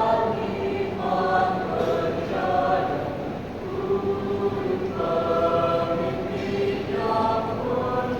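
Youth choir singing in harmony: sustained notes in phrases of a second or two, with several voice parts sounding together.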